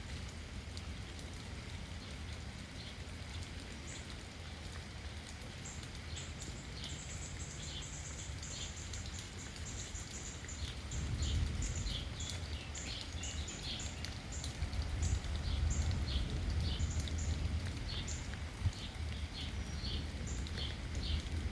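Steady rain, with many short high ticks of drops scattered throughout and a low rumble that grows louder about halfway through.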